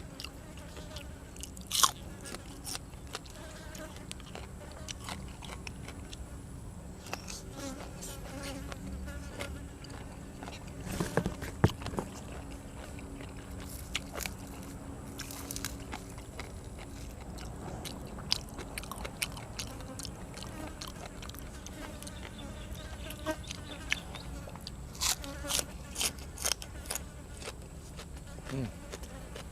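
A person chewing and biting grilled cuttlefish and crunching raw vegetables close to the microphone. Sharp crunches come about two seconds in, around eleven to twelve seconds, and in a run of several near the end, over a steady buzzing drone and a thin high whine.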